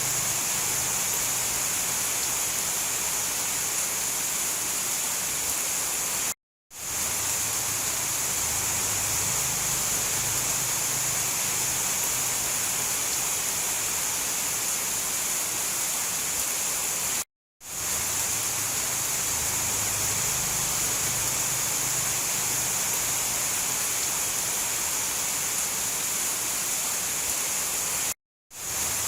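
Steady rain hiss, part of a looped rainstorm recording. It cuts out to silence for a split second three times, about every eleven seconds, at the loop joins.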